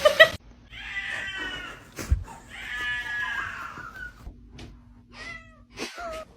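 Cat meowing: two long drawn-out yowls of about a second each, then a few short meows.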